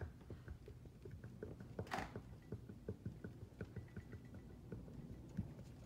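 Faint small clicks and taps as a brake caliper piston is wiggled back and forth in its bore to work it down past the new seal, with one brief louder noise about two seconds in.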